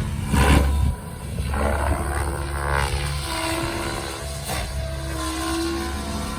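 Electric XLPower Specter 700 V2 NME RC helicopter in flight: the whine of its rotor blades and motor rises and falls in pitch as it manoeuvres, over a steady low rumble.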